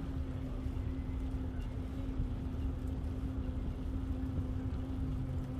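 Steady low rumble of wind and rolling noise from a moving bicycle, with a constant low hum running under it.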